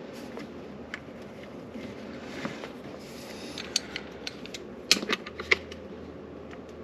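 Small clicks and taps of hand work on a garbage disposal's electrical connection: tools and metal parts being handled and a fitting being tightened. A few sharper clicks come together about five seconds in.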